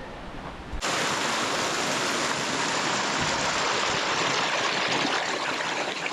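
Steady rush of flowing stream water, cutting in abruptly about a second in.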